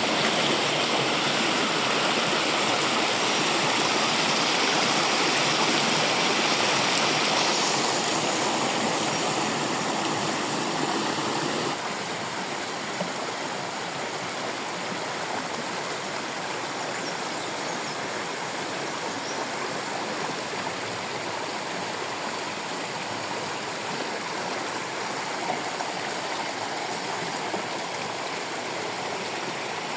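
Water rushing at a small waterfall and its stream, a steady rush that drops to a softer level about twelve seconds in.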